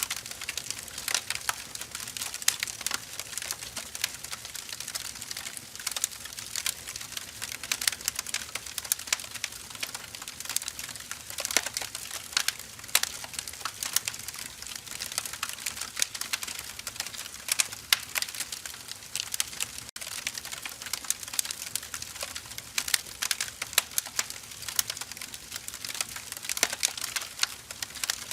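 Burning firewood crackling: a steady stream of small, sharp snaps and pops over a soft hiss, with a momentary dropout about twenty seconds in.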